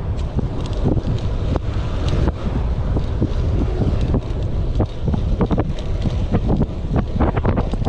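Wind buffeting the microphone of a camera on a moving bicycle: a steady low rumble with frequent short crackles.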